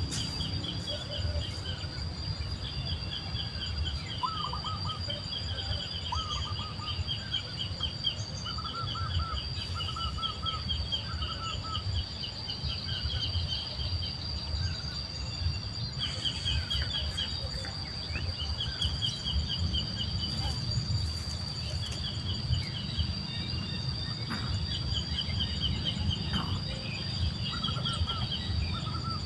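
Outdoor nature sound: bursts of rapid, high-pitched bird chirping repeat every few seconds over a steady high insect drone, with a low rumble of wind or handling noise beneath.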